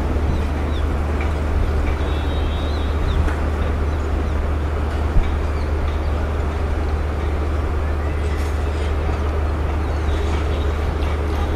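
WAG-12B electric locomotive hauling a loaded freight train as it approaches: a steady low rumble with the hiss of wheels on rail, and a few sharp clicks later on as the wheels run over rail joints and points.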